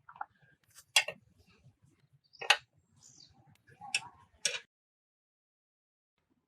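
Several sharp clicks and knocks at uneven intervals, the loudest about a second and two and a half seconds in.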